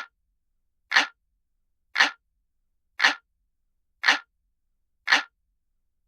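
Clock ticking sound effect, as of a traditional analog clock: single sharp ticks about once a second, evenly spaced, with silence between.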